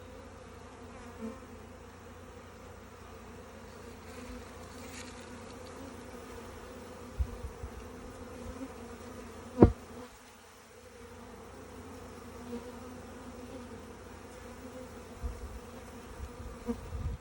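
Honeybees buzzing steadily in a continuous hum, with a dull knock about ten seconds in and a couple of fainter knocks shortly before it.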